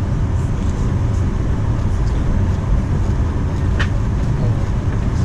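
Cabin noise inside a Boeing 737-900 with CFM56-7B engines: a loud, steady low rumble of engines and airframe, with one short click about four seconds in.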